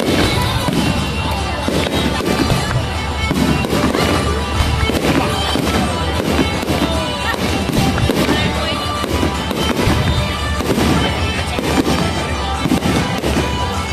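Aerial fireworks display: shells bursting in a quick, continuous run of bangs and crackles.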